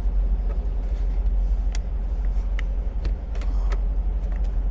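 Semi-truck's engine idling as a steady low rumble, with scattered small clicks and rustles of a cable being handled.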